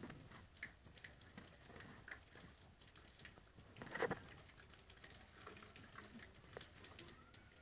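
Faint patter of rain, with scattered small drips and ticks, and one brief louder sound about four seconds in.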